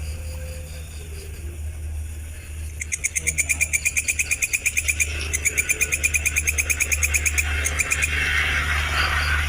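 Recorded insect calls: a fast, even pulsing trill of about ten pulses a second, in two runs of roughly two seconds each, followed by a softer hissing buzz, over a steady low hum.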